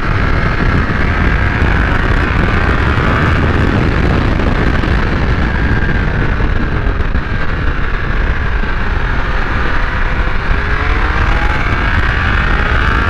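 Heavy wind buffeting on the microphone at speed, with the Triumph Speed Triple 1200 RS's three-cylinder engine running underneath. Near the end the engine note climbs as it revs up.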